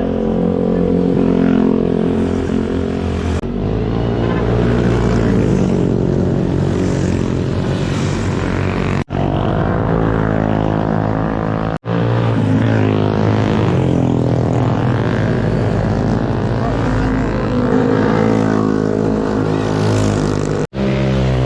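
Motorcycle engine running while riding, with wind and road noise. Its pitch rises and falls with the revs, and the sound breaks off abruptly a few times between joined clips.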